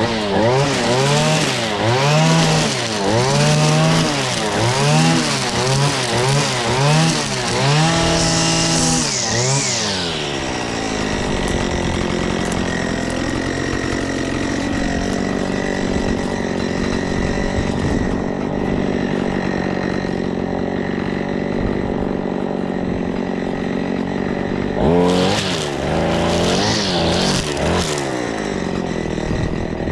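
Tractor engine running during mowing. Its pitch rises and falls in quick repeated waves for the first several seconds, glides up and back down, then runs steady, and near the end it swoops up and down again.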